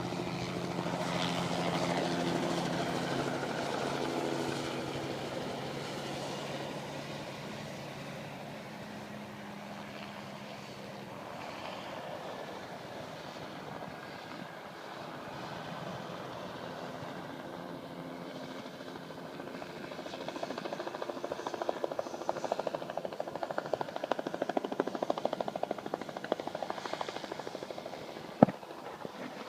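Crop-spraying helicopter's engine and rotor, fading into the distance and then coming back closer. The rotor's fast, even chop grows louder over the last third. A single sharp knock comes near the end.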